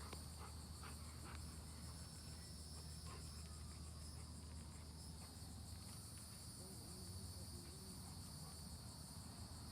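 Faint, steady chorus of insects such as crickets: a high, finely pulsing trill that never lets up, over a low steady background rumble.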